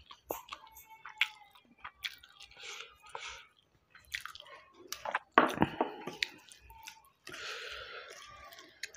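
Mouth sounds of chewing, with wet squishing as rice is mashed by hand with green chilli chutney and rasam poured from a bowl onto a steel plate. Scattered short clicks, and a louder burst about five and a half seconds in.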